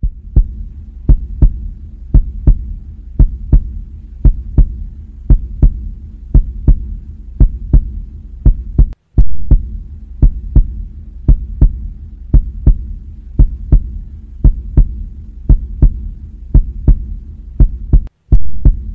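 Heartbeat sound effect: a slow, steady lub-dub about once a second over a low hum. It cuts out for an instant twice.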